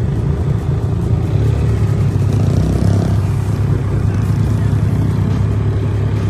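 ATV engine running steadily, a loud, even low rumble.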